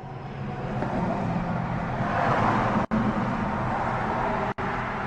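Steady background noise of distant road traffic, broken twice by a sudden split-second gap.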